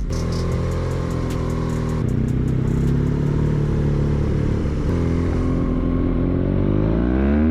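BMW R nineT's boxer-twin engine running under way, holding a steady pitch, then rising in pitch as the bike accelerates near the end.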